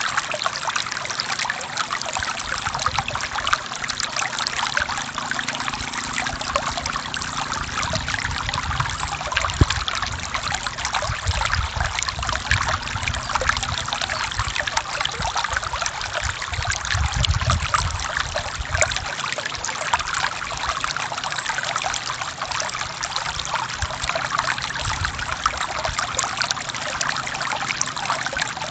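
Forest stream flowing steadily over rocks, a continuous babbling and splashing of running water, with a deeper low churning swelling around the middle.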